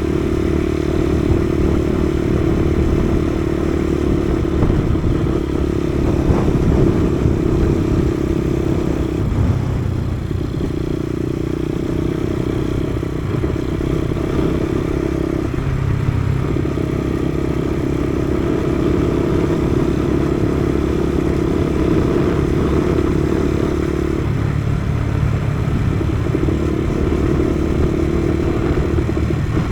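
Kawasaki KSR110's small single-cylinder four-stroke engine running under way. Its steady note dips briefly and picks up again about four times, with low wind rumble on the microphone.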